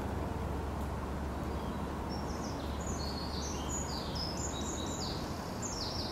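A small songbird singing a quick run of high chirping notes, starting about two seconds in, over a steady low outdoor rumble.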